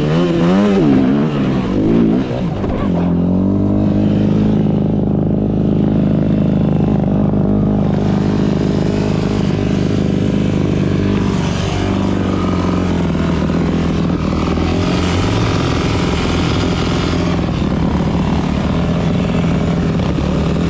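Dirt bike engine running under throttle, heard from a GoPro on the bike or rider. The revs rise and fall quickly for the first couple of seconds, then hold fairly steady, with another brief dip about halfway through.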